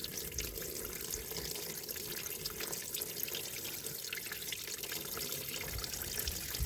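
Water pouring steadily out of a Massey Ferguson 35 tractor's crankcase drain and splashing. The crankcase is full of water instead of oil, a lot of it.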